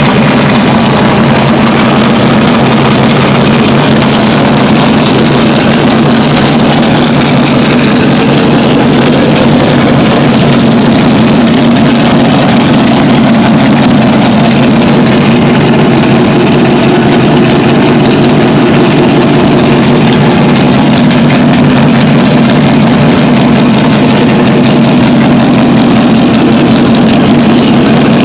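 482-cubic-inch big-block Chevy V8 of a 1968 Chevy pulling truck idling, loud and steady with no revving.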